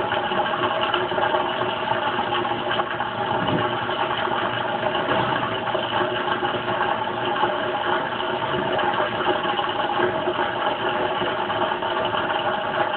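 Kenmore Oasis top-load washing machine's drain pump running steadily, pumping water out of the tub after the wash stage, with a constant mechanical hum.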